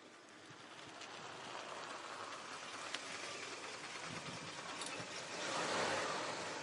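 Cadillac car rolling, with steady tyre and road noise that swells to its loudest shortly before the end and a small click about three seconds in.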